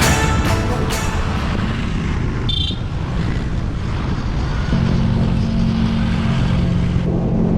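Motorbike engine running with low wind rumble; a steady engine hum comes in clearly about five seconds in.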